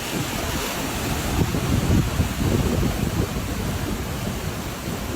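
Storm-force wind blowing hard, with a loud steady rush and irregular low rumbling gusts buffeting the microphone.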